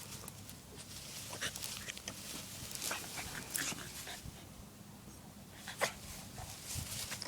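Boston Terrier playing in tall grass: scattered short rustles and dog sounds, the sharpest one about six seconds in.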